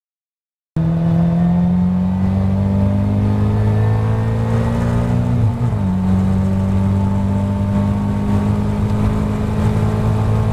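Caterham 270R's four-cylinder engine running hard at full throttle, heard from onboard as the car accelerates. It starts after a brief silence, with a short dip in revs about five and a half seconds in before it holds steady again.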